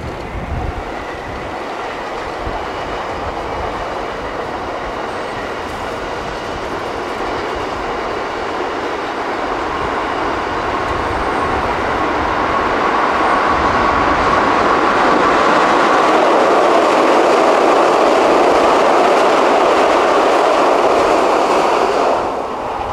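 Keikyu 600 Series electric train running over a steel truss railway bridge: a steady rumble and clatter that slowly grows louder, peaks about three-quarters of the way through, then cuts off near the end.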